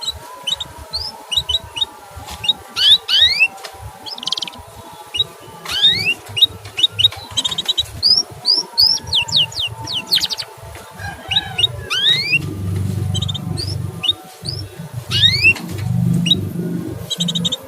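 Male canary chirping: many short, quickly rising 'cuit' notes in fast runs, with a few brief rattling trills among them. A low rumble runs underneath from about two-thirds of the way in to near the end.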